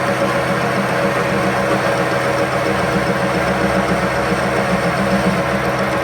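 A machine motor running steadily with a constant hum.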